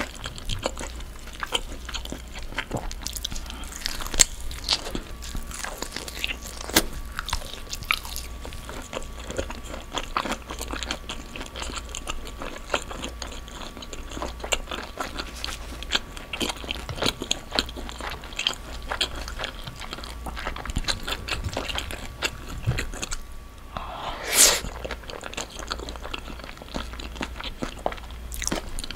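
Close-miked chewing and mouth sounds of a person eating cream pasta and air-fried pork belly: many small wet clicks and smacks, with one louder short rush of noise near the end.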